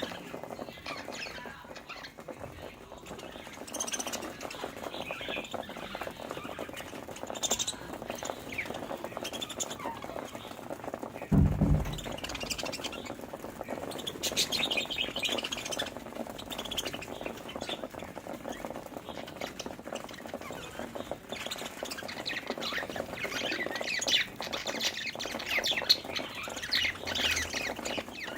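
Several budgerigars chirping and chattering continuously in quick short notes. Once, a little before the middle, a brief low thump.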